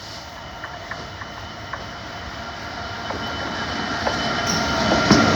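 DB Cargo freight train approaching on the track. Its rumble and wheel noise grow steadily louder until it is passing close by near the end.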